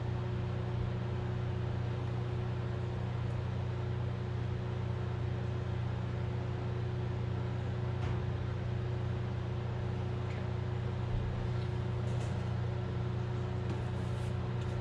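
Steady low machine hum with a constant overtone, unchanging throughout, and a few faint clicks near the end.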